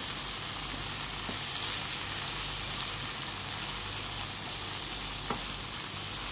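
Cooked beef pieces frying with shallots in a non-stick pan, giving a steady sizzle as a wooden spatula stirs them. There are a couple of light knocks of the spatula against the pan.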